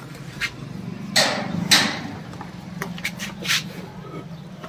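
A cow eating feed offered to it, with short noisy bursts and clicks; the loudest come about one to two seconds in, over a steady low hum.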